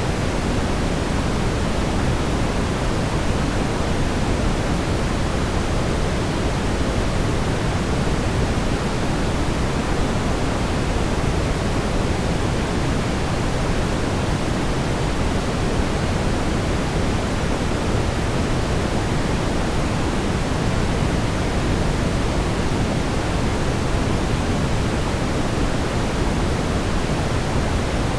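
Brown noise: a steady, even, low rumbling hiss with no change in level.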